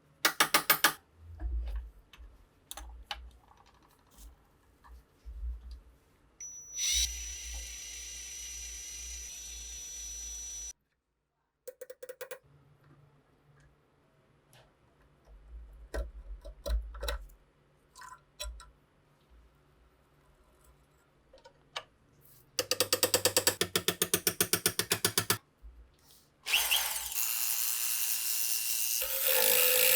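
Small metal mechanism clicking and ratcheting as it is worked by hand, with a fast even run of clicks about two thirds of the way in. Two stretches of steady noise, one with a high steady tone, come and go between the clicks.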